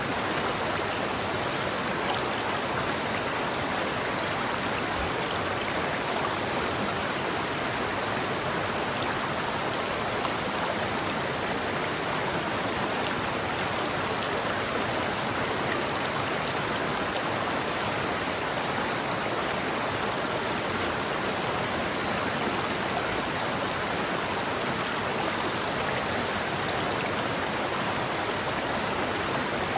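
River water flowing steadily over rocks, a continuous even rushing with no let-up.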